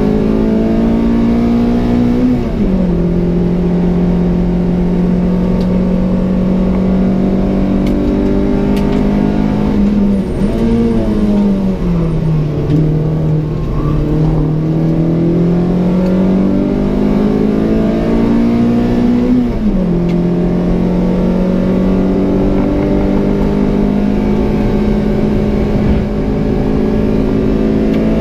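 Peugeot 106 Rallye S1's 1.3-litre 8-valve four-cylinder engine, breathing through a 4-2-1 manifold and Pugsport exhaust, heard from inside the stripped race cabin under full-throttle racing. The engine note climbs and drops sharply at upshifts about two seconds in and again near twenty seconds, and falls under braking around ten to twelve seconds for a slow corner before rising again as it accelerates out.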